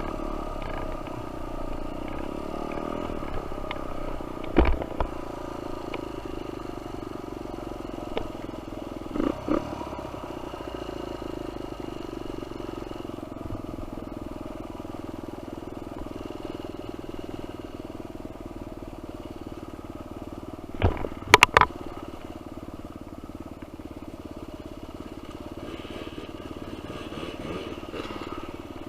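Dirt bike engine running at a steady pitch, with a few sharp clacks over it, the loudest a quick cluster about two-thirds of the way through.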